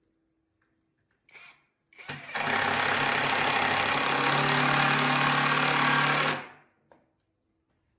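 A handheld power tool working wood runs for about four seconds, with a steady hum under a loud hiss, then winds down. A couple of faint knocks come just before it starts.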